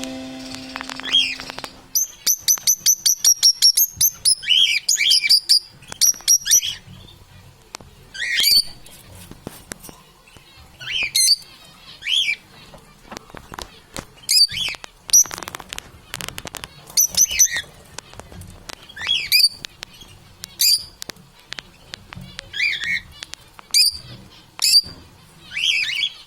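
Parrots calling: a quick run of repeated high chirps, then scattered squawks and whistled calls every second or so, mixed with soft clicks.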